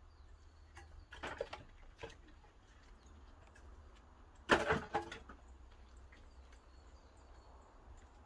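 Pine-wood fire in a traditional wood-fired kiln, with a few sharp crackles and knocks over a low steady rumble; the loudest knock comes about four and a half seconds in.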